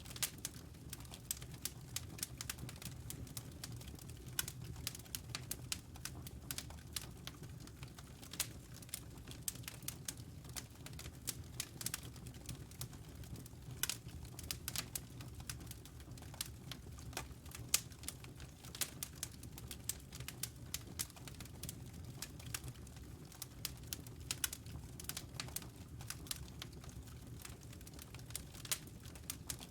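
Wood fire in a fireplace crackling: frequent, irregular sharp pops and snaps from the burning logs over a steady low rumble of the flames.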